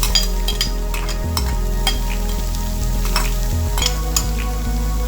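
Stir-frying in a hot pan: a steady sizzle, with the spatula scraping and clicking against the pan every second or so as the vegetables and meat are tossed.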